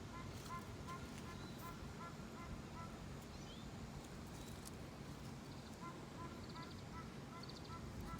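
A bird calling in a rapid series of short, evenly spaced notes, about three a second, pausing for a few seconds in the middle before starting again, over a low steady background hum.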